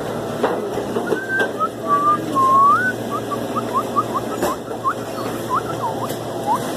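A person whistling a tune: a few long notes that slide up and down, then a run of short, quick notes, over a steady background hum.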